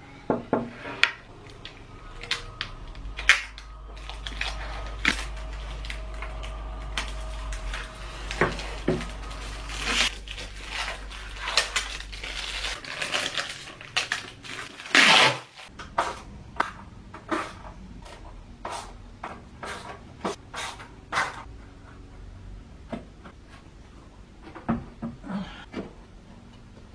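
Scattered clinks, knocks and rattles of chrome metal furniture parts being handled and fitted together during flat-pack assembly, with a louder knock about halfway through. A low steady hum runs underneath for the first half.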